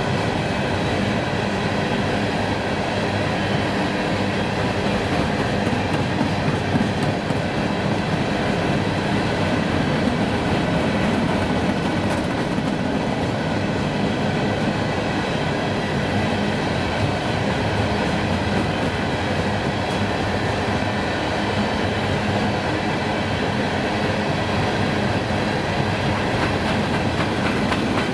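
A train's cars rolling steadily past on the track, with a continuous rumble and wheel clatter and no let-up.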